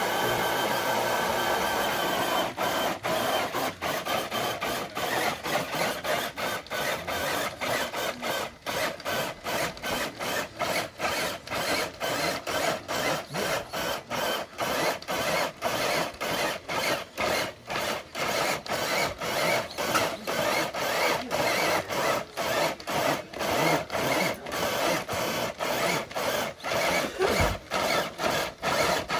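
Electric RC crawler truck's motor and gear train whining under load as it drags a dead-weight pull sled. The whine runs steadily for the first couple of seconds, then breaks up in short even pulses about twice a second.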